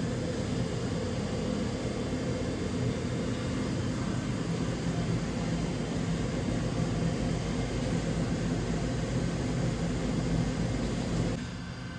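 DVF 5000 five-axis CNC mill running, a steady noisy machine drone with a low hum. Near the end the noise drops off suddenly as part of the machine's running stops.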